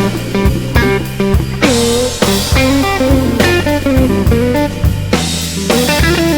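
Blues band music: a lead guitar solo with notes bent up and down over drums and bass.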